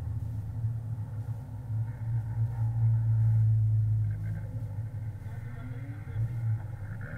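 NSU Thurner RS engine heard from inside the cockpit, running at low revs while the car rolls slowly. It swells a couple of seconds in, then eases off, with brief changes in pitch near the end.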